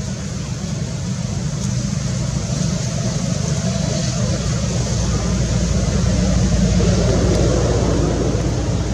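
A motor vehicle's engine running close by, a steady low rumble that grows louder over the second half.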